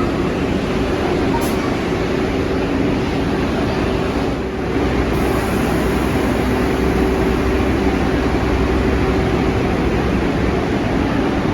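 Bombardier R62A subway train running through the station: a loud, steady rumble of wheels on rail with a constant hum underneath, dipping briefly about halfway through.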